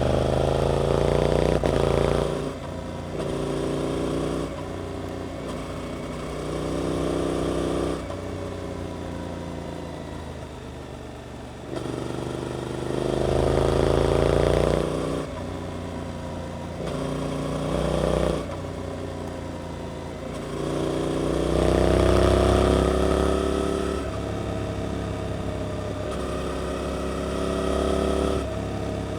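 Suzuki GSX-8S parallel-twin with an Arrow aftermarket exhaust, ridden hard: the engine note climbs in pitch on each pull out of a corner and falls back as the throttle is closed, about seven times, with quieter stretches of easing off in between.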